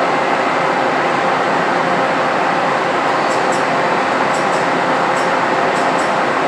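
CNC milling machine cutting titanium with a six-flute solid carbide high-feed end mill: a loud, steady machining noise with a faint hum, and light ticks a few times a second from about halfway through.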